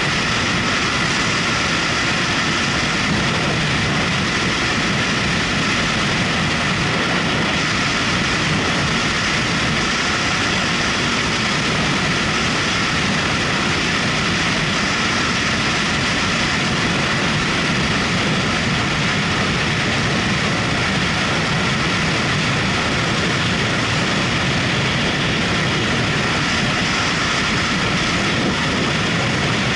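Motorcycle under way at a steady speed: engine running with a rush of wind and road noise, unchanging throughout.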